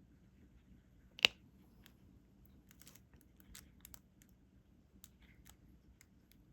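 Small scattered clicks and taps of diamond painting: a drill pen picking up resin drills and pressing them onto the sticky canvas, with one sharper, louder click about a second in.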